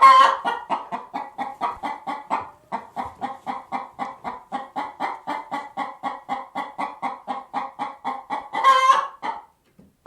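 A chicken clucking in a steady run of short calls, about four a second, with one louder squawk near the end.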